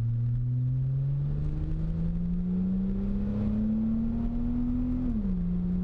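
Ford Fusion Sport's 2.7-litre twin-turbo V6 heard inside the cabin, its exhaust note climbing steadily as the car accelerates, then dropping about five seconds in as the transmission shifts up. The exhaust is a Magnaflow axle-back with both factory resonators deleted.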